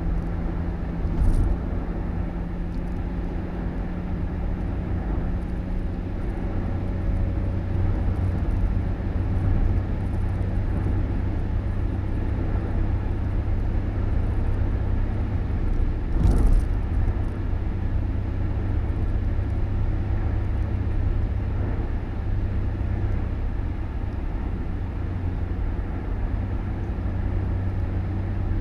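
Steady low running hum of a motor vehicle, with a short knock about a second in and a louder one about sixteen seconds in.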